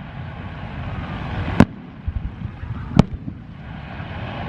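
Aerial fireworks display bursting: two sharp bangs about a second and a half apart, over a steady low rumble.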